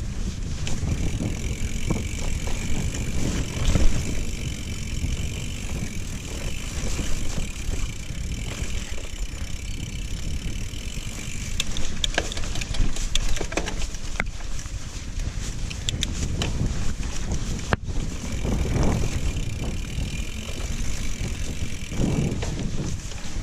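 Mountain bike ridden fast down a dirt trail: tyres rumbling over the ground, with the chain and frame clicking and rattling over bumps and wind buffeting the microphone.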